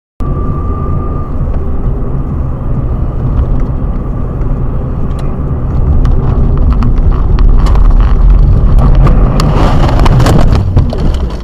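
Dash-cam recording of a car on the road: a loud, steady low engine and road rumble that grows louder about halfway through, with a run of sharp knocks and clatter near the end.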